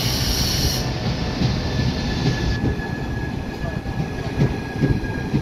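Electric multiple-unit train running along the platform: a steady rumble of wheels on rail, with a faint steady whine coming in about two seconds in.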